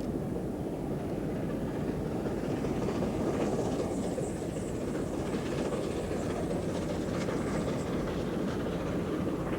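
LNER A4 Pacific steam locomotive running with its train: a steady rumble, with a higher rattle and clatter of the train over the track from about four to eight seconds in.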